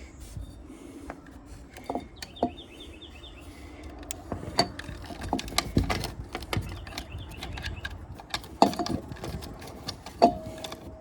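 Irregular clicks, taps and knocks of ceiling fan hardware and tools being handled, several strong ones in the second half.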